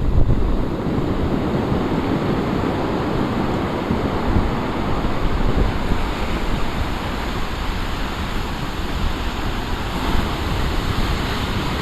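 Big storm waves breaking and washing ashore in a steady rush of surf, with wind rumbling on the microphone.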